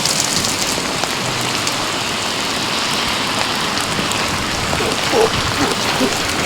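Heavy rain falling steadily, an even hiss of rain hitting surfaces.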